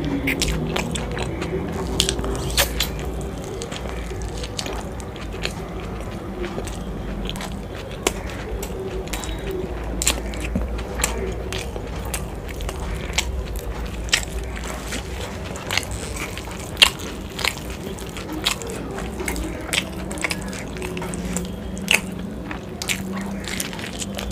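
Close-up chewing and wet mouth smacking of a person eating saucy chilli momos (dumplings in chilli sauce), with many sharp wet clicks and a bite into a fresh momo near the end.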